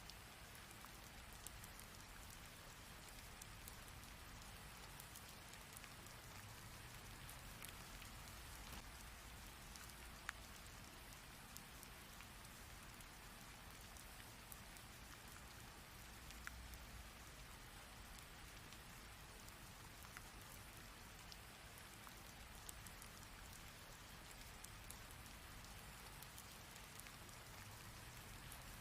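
Heavy rain falling steadily, an even hiss of rainfall with many small drop ticks and a few sharper, louder drops.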